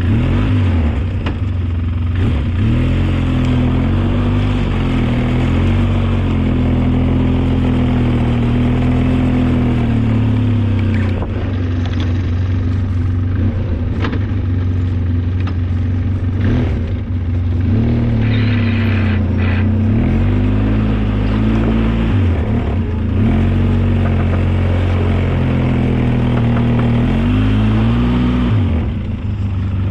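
Engine of a snow-plowing vehicle running steadily under load, its pitch dipping and rising several times as it slows and picks up speed again.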